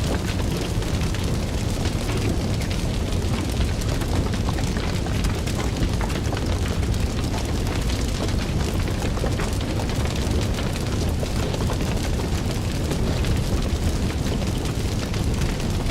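Fire crackling: many small sharp pops scattered over a steady low rushing noise of the flames.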